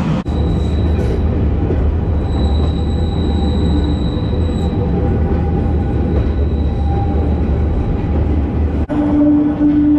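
Steam-hauled heritage railway carriage running along the track, heard from its open end platform: a steady rumble and rattle of wheels and coupling gear, with a thin high wheel squeal from about two to five seconds in. Near the end a steady, lower pitched tone comes in.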